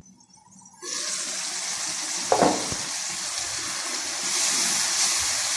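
Chicken pieces sizzling in hot oil and masala in an uncovered karahi, a steady hiss that starts about a second in. The water has cooked off and the chicken is frying. A brief knock about two seconds in.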